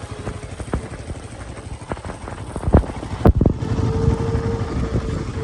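Vehicle travelling over a rough road: a low rumble broken by repeated knocks and jolts, two of them louder in the middle. A steady hum joins about two-thirds of the way in.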